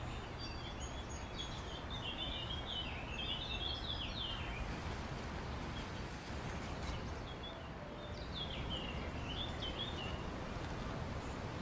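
Small birds twittering in two quick, warbling spells of song over a steady low outdoor rumble.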